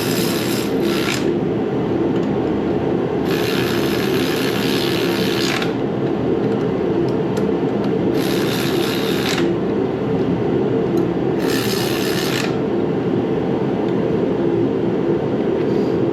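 A shop heater runs with a steady hum and noise throughout. Over it come four bursts of hiss, each lasting one to two seconds.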